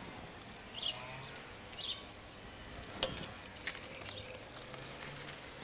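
A few faint, short bird chirps over a quiet background, with one sharp click about three seconds in.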